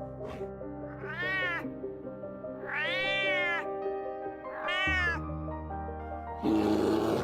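Domestic cat meowing three times, each meow rising then falling in pitch, the middle one longest, over background music. A rough, noisy animal sound follows near the end.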